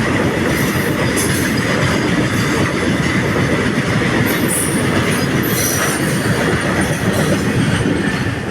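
Indian Railways freight train of oil tank wagons rolling past at close range: a steady, loud rumble of wheels on rail, with brief high wheel squeals about halfway through. The noise begins to fade near the end.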